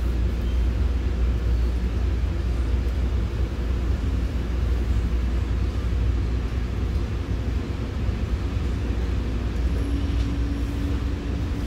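Steady low rumble of a commuter train running along the track, heard from inside a passenger coach. A faint steady hum joins near the end.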